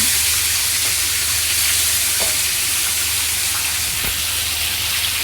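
Onion and ginger-garlic paste sizzling in hot ghee and oil in a kadai, a steady dense hiss, with a couple of faint knocks of stirring. A low hum runs underneath.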